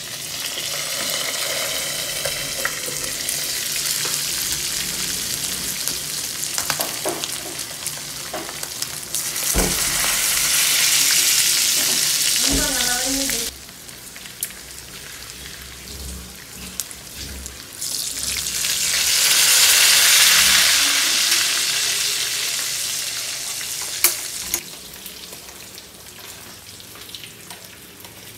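Pieces of roast pig (lechon) deep-frying in hot oil: a dense, steady sizzle that swells louder twice, about ten seconds in and again about twenty seconds in.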